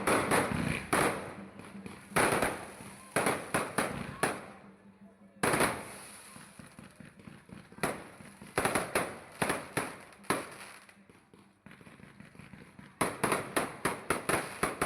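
Fireworks going off: a string of loud bangs, each trailing off, spaced a second or two apart, with a quick rapid-fire run of bangs near the end.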